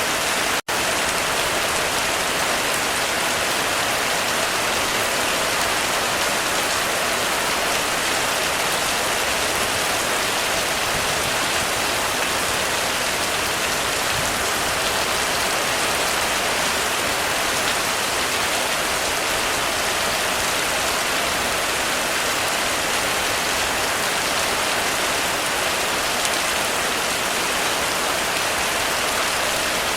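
Heavy rain falling steadily on a roof, a dense, even hiss of drops. Less than a second in, the sound cuts out for an instant, then resumes unchanged.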